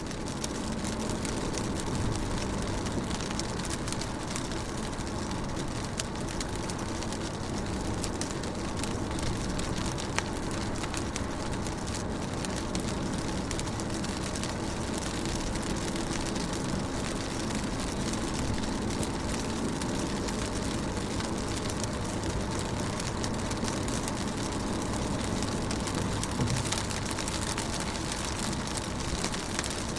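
Rain falling on a car window, heard from inside the car: a steady hiss of rain with many small drop taps over a low, even rumble.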